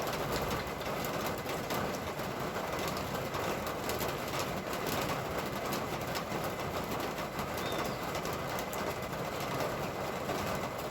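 Steady hiss of rain falling on a street, with a few faint bird chirps.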